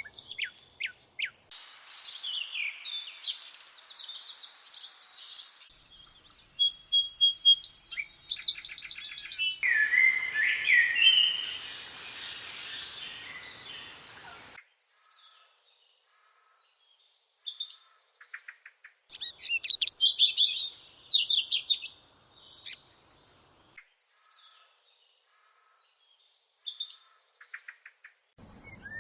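Songbirds chirping and singing: a series of different calls, rapid trills and high whistled phrases, in separate stretches that start and stop abruptly, with short quiet gaps between.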